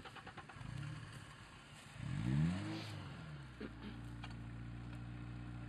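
Off-road SUV engine revving briefly about two seconds in, pitch rising and falling, while the vehicle is stuck in mud, then settling into a steady idle.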